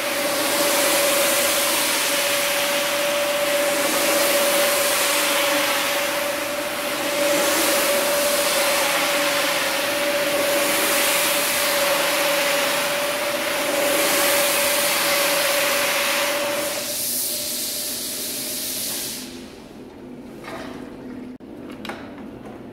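Rug-cleaning machine running with a steady whine under a hissing water spray that swells and fades in passes. About 17 seconds in it winds down, leaving a much quieter stretch with a few clicks.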